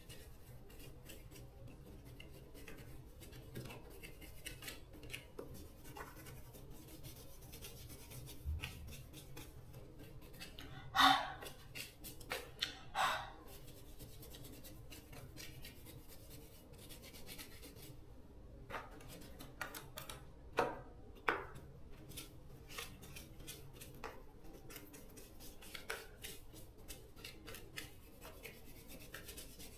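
Faint scraping, rubbing and small clicks of hand work on small parts, with a few louder scraping strokes about a third of the way in and again about two thirds of the way in.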